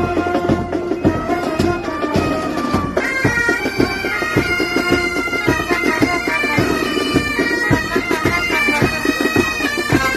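Military pipe band playing: bagpipes carry a melody over regular drum strokes, with the melody filling out about three seconds in.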